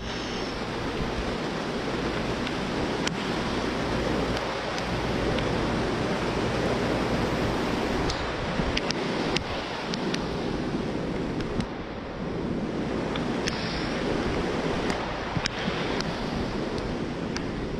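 Steady rush of storm wind and rain, buffeting the microphone, with scattered sharp ticks.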